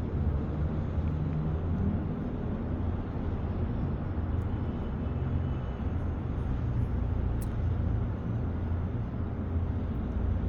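Road traffic on a snow-covered street: a steady low rumble of vehicle engines moving slowly below.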